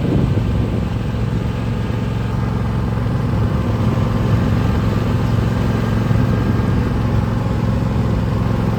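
Small vehicle engine running steadily at a constant speed.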